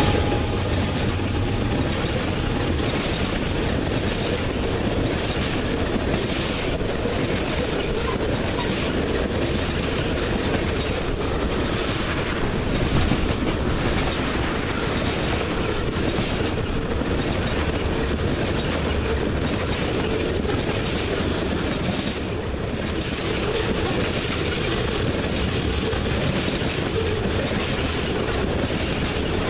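A freight train's cars rolling past steadily, their wheels clicking over the rail joints in a repeating rhythm. A horn note dies away in the first couple of seconds.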